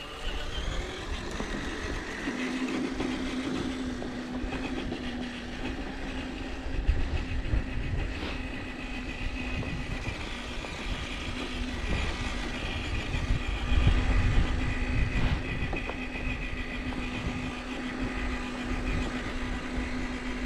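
Electric RC crawler truck's motor and gearbox whining steadily under load as it drives through snow, with a few sharp knocks along the way.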